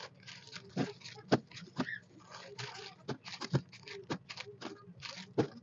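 Plastic packaging rustling in short bursts, with about a dozen light knocks and clicks of containers, as groceries are handled and stocked into a refrigerator.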